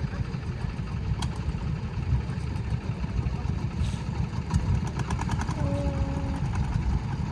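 An engine idling with a steady low rumble, with a few faint clicks over it.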